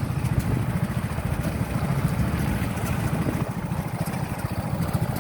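Motorcycle engine running steadily at low speed, a rapid low throb over road noise.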